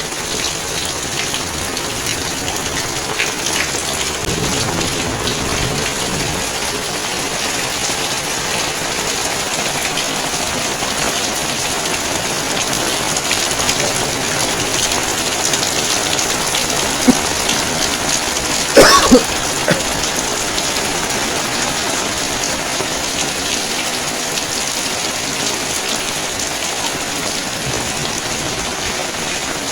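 Steady rain falling and pattering on surfaces, a continuous hiss full of fine drop ticks. About two-thirds of the way through, a brief, loud, pitched sound cuts in over it with a few quick pulses.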